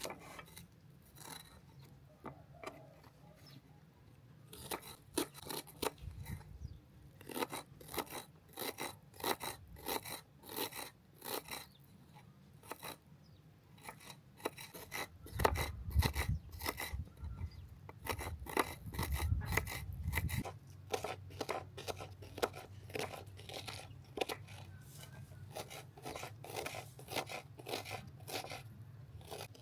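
Repeated short, crisp crunching or snipping strokes, coming in runs with brief pauses. A low rumble sits under them from about 15 to 20 seconds in.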